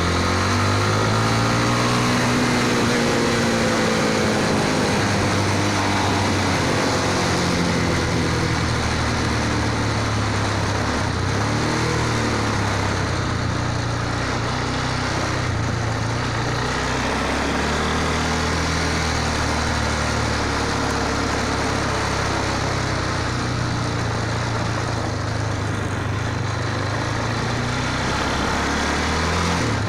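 Motorcycle engine running steadily while riding, its pitch rising and falling with the throttle, over a constant rush of noise.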